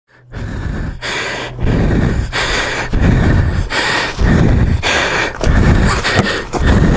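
A person breathing hard close to the microphone, loud rhythmic gasping breaths about one and a half a second, as from heavy exertion.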